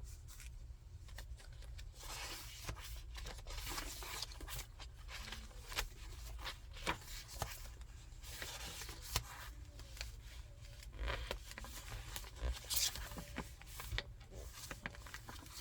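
Pages and inserts of a thick handmade paper junk journal being handled and turned, with rustles every few seconds and small crisp clicks and taps. A steady low hum runs underneath.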